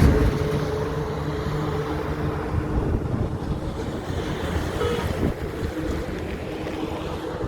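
Highway road traffic. A passing vehicle's engine hum fades in the first second or two, leaving a steady rumble of road noise.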